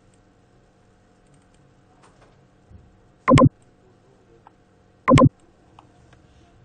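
Two short, loud sharp sounds about two seconds apart, with faint light ticks and taps around them.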